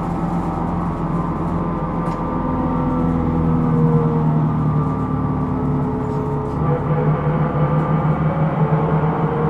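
Hino Rainbow II city bus running, heard from inside the cabin: a steady low engine and drivetrain drone with several whining tones on top that drift slightly in pitch.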